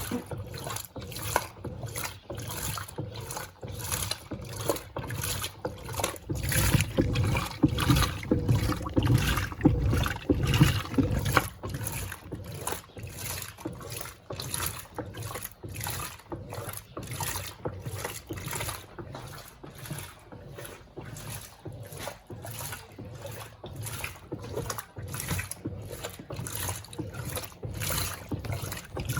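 Electrolux Turbo Compacta LTC07 top-loading washing machine agitating its load, water sloshing in a steady rhythm of about two beats a second, louder for a few seconds near the middle. It runs quietly for a washer.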